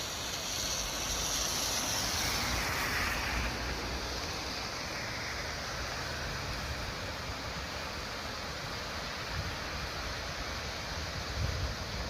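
Waterfall pouring: a steady rushing of falling water with a low rumble underneath, the hiss a little brighter for the first few seconds.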